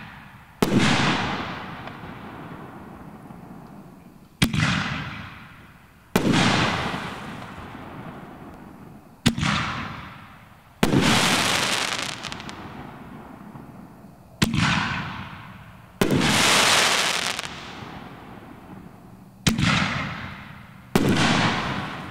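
SFX Fireworks 'Hammer of Thunder' cake firing canister shells: sharp reports in pairs about a second and a half apart, the launch and then the shell's break, each with a long echoing tail. Two of the breaks are followed by about a second and a half of crackling from crackling-palm stars.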